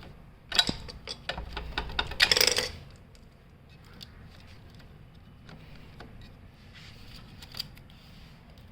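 Sharp metallic clicks and clatter of tools and metal parts being handled, in a quick run over the first few seconds and ending in a brief loud rattle, then a few faint ticks.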